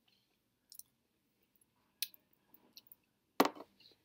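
Quiet chewing of a soft macadamia nut cookie: a few scattered mouth clicks and smacks, with the loudest, sharpest one about three and a half seconds in.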